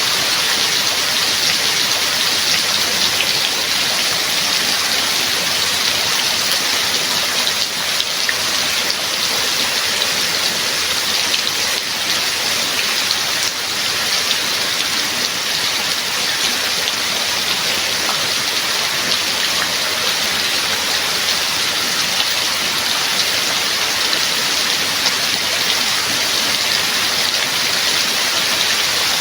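Steady rain, a dense even hiss with the patter of individual drops on a surface.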